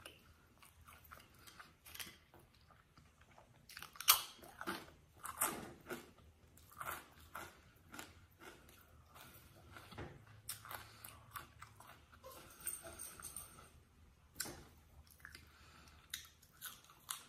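A person chewing and biting food, with irregular crunches and wet mouth clicks; the loudest crunch comes about four seconds in.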